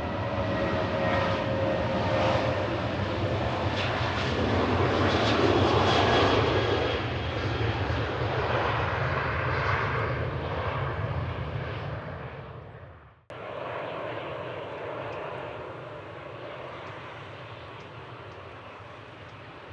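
Jet airliner engines passing close, a whining fan tone over a rushing roar that is loudest a few seconds in and then fades. About thirteen seconds in the sound cuts off abruptly and comes back as a quieter, steady jet engine rush.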